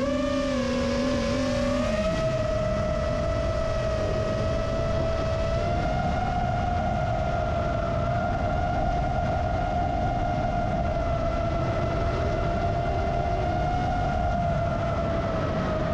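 Rajawali Fold 7 FPV quadcopter's motors whining at a steady high pitch over wind rush. The pitch rises a little about two seconds in and then holds.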